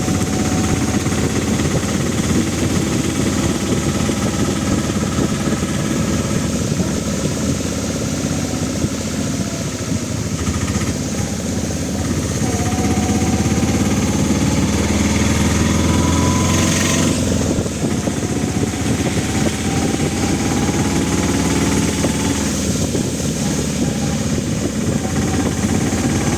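A vehicle engine running steadily, with its pitch gliding up and down as the speed changes.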